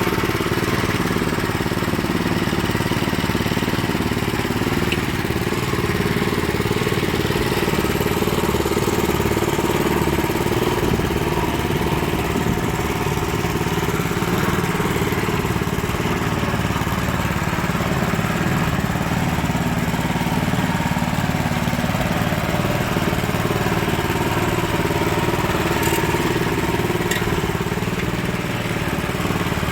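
Small engine of a self-propelled boat trailer running steadily at an even speed.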